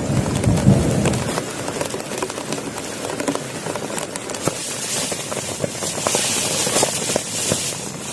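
Heavy rain falling, with many sharp drop hits on a surface close by. A low rumble of thunder fades out about a second in, and the hiss of the rain grows stronger near the end.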